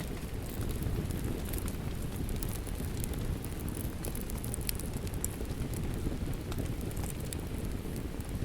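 A wood fire crackling, with scattered sharp pops, over a steady wash of falling rain.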